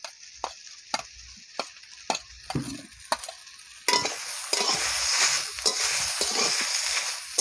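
Scattered light clicks and taps in a wok. About four seconds in, a metal spatula starts stirring, and the brinjal, potato and fried prawns sizzle louder as they are turned over in the hot oil.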